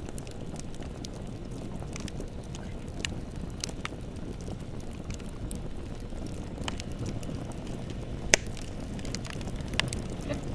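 Bonfire burning: a steady low rumble of flames with scattered sharp crackles and pops, the loudest pop about eight seconds in.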